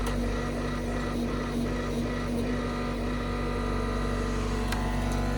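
John Deere 325G compact track loader's diesel engine running steadily at a constant pitch while it works.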